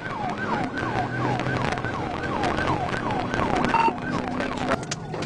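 Police car siren cycling fast, a quick falling sweep repeated about three times a second, heard from a patrol car during a pursuit.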